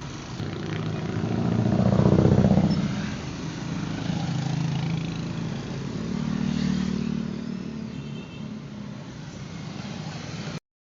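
Engines of passing vehicles, swelling to a loud peak about two seconds in and again around six to seven seconds. The sound cuts out abruptly near the end.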